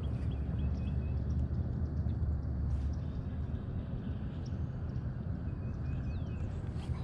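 Birds chirping faintly over a steady low rumble.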